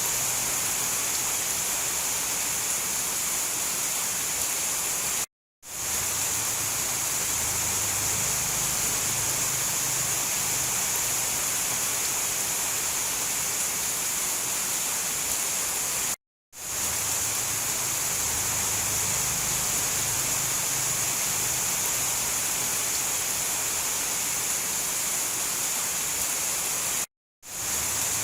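Steady heavy rain, an even hiss with a faint low rumble under it. It cuts out to silence for a split second three times, about every eleven seconds.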